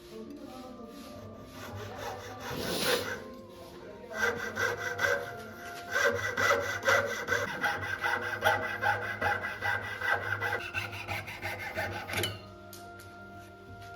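Hand file rasping on hardwood (Indian mahogany) in quick repeated strokes, with a short scrape about two and a half seconds in and steady filing from about four seconds in until about twelve seconds.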